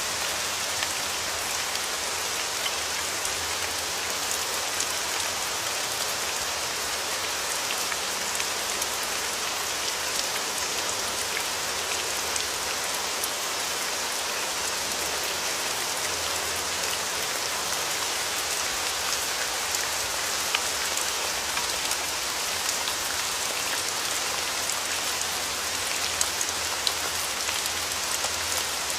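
Steady rain falling, with individual drops ticking sharply on a surface throughout, a few louder ones about 20 seconds in and again near the end.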